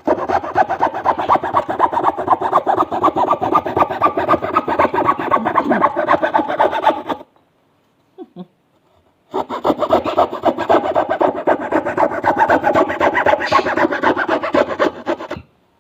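Hand saw with a steel blade cutting through balsa wood: two spells of steady back-and-forth sawing, each about six or seven seconds long, with a pause of about two seconds between them.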